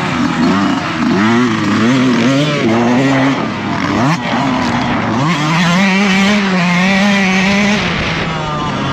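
Dirt bike engine under load on a motocross track, revving up and easing off in quick throttle swings, dropping sharply about four seconds in, then held at a steady high rev for a couple of seconds before falling away near the end.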